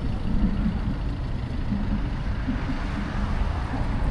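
Steady low rumble of busy city street noise, likely road traffic on the bridge, with faint voices in the background.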